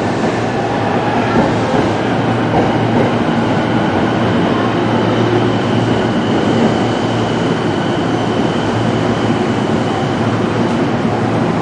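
JR East E257 series electric train pulling out of the platform: a steady rumble of running gear and wheels on rail, with a thin high tone over it.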